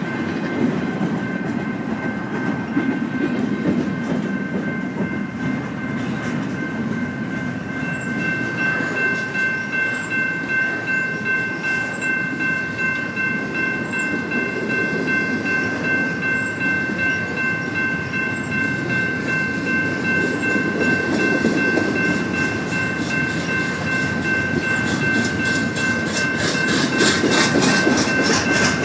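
Freight train cars rolling past with a steady rumble. A steady high-pitched whine rises above it from about eight seconds in, and a rhythmic clickety-clack of wheels over the rail joints comes in near the end.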